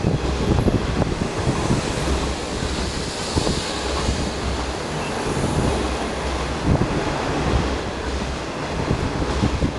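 25T passenger coaches of a through train rushing past non-stop: a continuous rush of wheels on rails with scattered knocks, and wind from the passing train buffeting the microphone.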